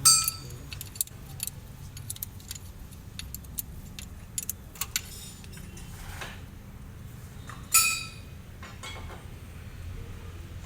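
Metal hand tools and small metal parts clicking and clinking, with two loud ringing metallic clinks, one right at the start and one about eight seconds in.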